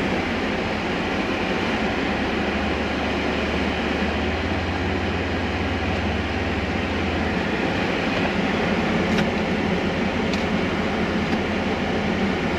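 Polaris Ranger Northstar side-by-side running and moving slowly while manoeuvring, a steady rumble with a deeper hum that swells for a few seconds in the middle.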